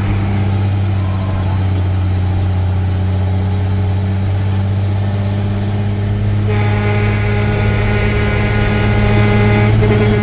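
Truck engine running steadily with a low hum. About six and a half seconds in, a steady pitched tone with many overtones joins it and holds to the end.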